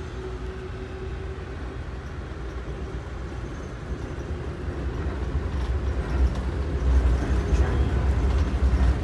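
Low, steady rumble of an Amtrak passenger train running, heard from inside the coach, growing louder about halfway through.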